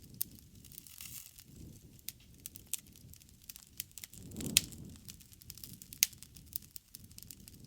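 Bonfire crackling, with many small sharp pops and snaps of burning wood. The loudest pop comes about four and a half seconds in with a low swell of flame under it, and another sharp snap follows about a second and a half later.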